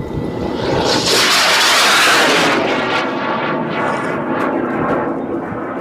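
High-power rocket's carbon-cased N-class motor roaring at launch, loudest about one to two seconds in, then slowly fading as the rocket climbs away.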